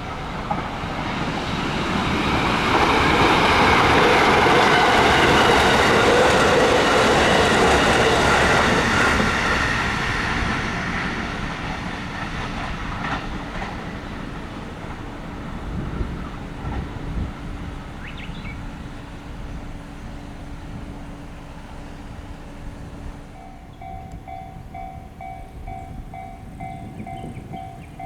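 A train on JR West's Hokuriku Main Line passing over a level crossing, growing loud for several seconds and then fading away, with wheels clacking over the rails. Near the end a level crossing warning bell rings in a rapid, even pulse.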